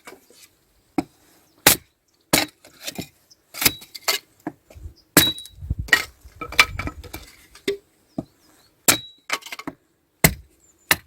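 Firewood being split and chopped with an axe: about a dozen sharp knocks of the blade into wood at uneven intervals, some with a short ringing click.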